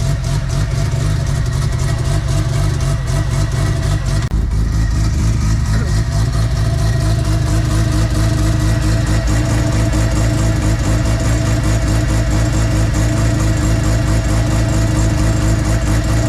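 Semi-peripheral-ported Mazda RX-7 FD rotary engine with a big turbo, running at a high, choppy 'brappy' idle just after its first start, the lumpy idle of a semi-PP port. The note changes about four seconds in, then runs on steadily and loud.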